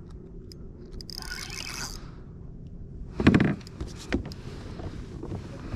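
Steady low rumble of wind and water around a kayak, with a short hiss about a second in and a loud thump against the hull about three seconds in.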